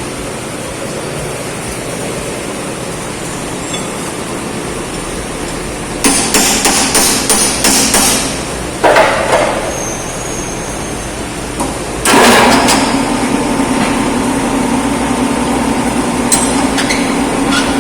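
Hammer blows on a metal part: a quick run of strikes about six seconds in, then one harder blow that rings. About twelve seconds in, a motor starts and runs steadily with a constant hum.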